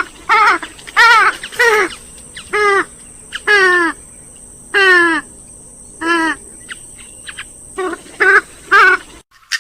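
Gallinule calls: a series of about a dozen loud, short, ringing notes, each bending and falling in pitch, in uneven bursts with short pauses, over a faint steady hum. The recording cuts off abruptly shortly before the end.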